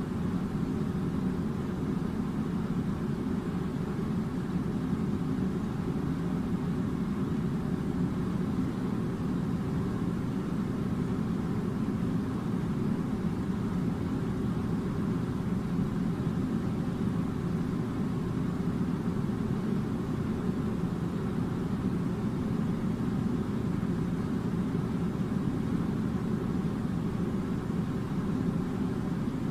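Air conditioner running with a steady, unchanging low hum.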